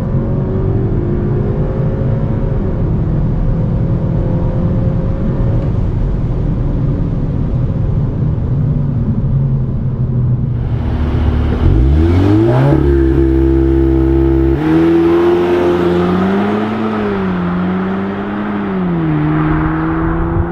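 CUPRA Ateca's tuned 2.0-litre turbocharged four-cylinder engine driving along with road noise, then about halfway through the revs climb sharply as it accelerates hard. The engine note then holds high, steps and wavers up and down.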